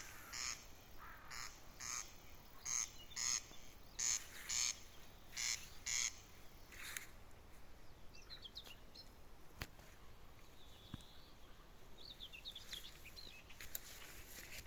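A run of short, quack-like calls from an unseen animal, coming mostly in pairs about every second or so through the first half. After that come fainter, high bird chirps.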